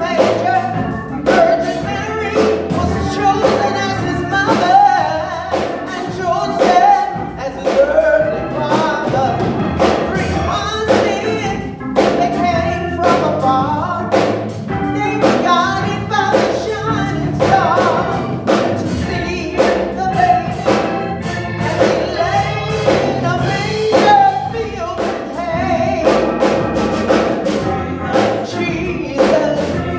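Gospel choir singing with a band, over a steady beat.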